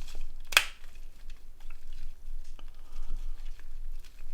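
Small plastic clicks and taps from a Nokia N80 slider phone's housing parts being handled and fitted together. One sharp click comes about half a second in, then lighter scattered ticks.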